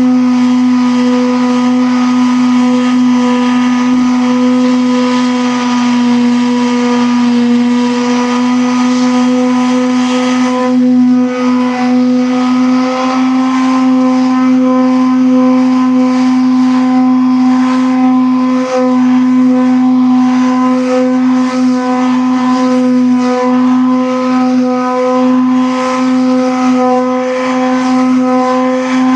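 A machine motor running steadily with a strong, even hum, its pitch sagging slightly a few seconds in before settling back.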